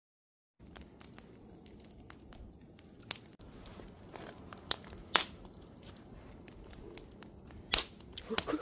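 Wood campfire crackling, starting about half a second in: irregular sharp pops and snaps over a low rumble of burning, with louder pops near the end.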